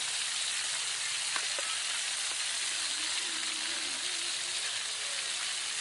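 Snake pieces frying in hot oil in a wok, a steady sizzle, with one short tap about a second and a half in.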